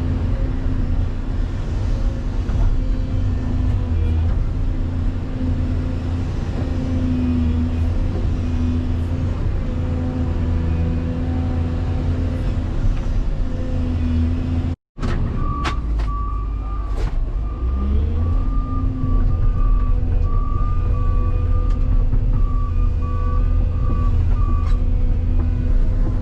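Heavy diesel machinery running steadily. After a brief cut in the sound near the middle, a dump truck's reversing alarm beeps repeatedly for about nine seconds over the engine noise.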